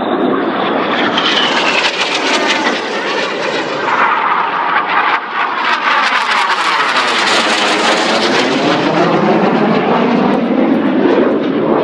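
Fixed-wing display aircraft flying low past, a loud, steady engine noise with a sweeping, swooshing tone that is brightest about seven seconds in as it goes by.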